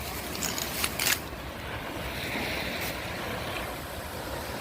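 Steady wind rumble on the microphone with surf washing on the beach, and a few sharp clicks of the camera being handled about a second in.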